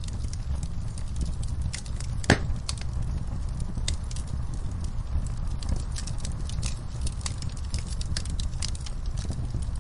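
Wood fire in a fireplace crackling, with many sharp snaps over a steady low rumble of the flames. One louder pop comes a little over two seconds in.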